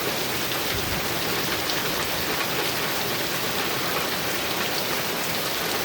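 Heavy rain falling steadily on a metal roof, an even, unbroken patter.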